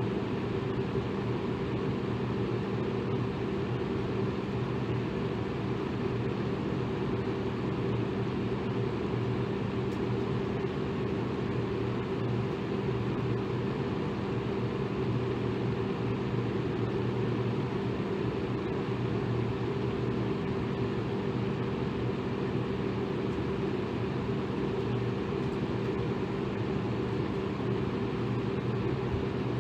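Electric fan running steadily: an even rush of air with a low, constant hum underneath.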